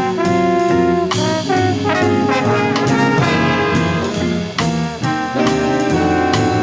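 Instrumental music: a band led by brass, with trumpets and trombones, playing a jazz-style piece with a steady beat.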